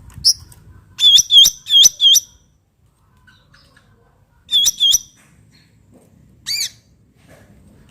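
Cucak ranting songbird calling loudly in short, sharp, hooked notes: five in a quick run, a pause, then two more, and near the end one single call of a different shape.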